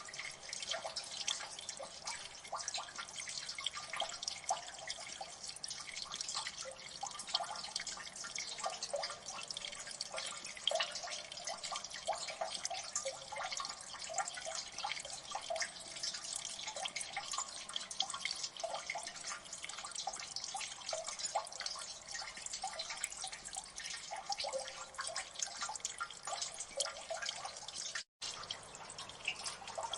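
Water dripping in a gully: many drops falling fast and irregularly, overlapping one another, with a brief cut-out to silence near the end.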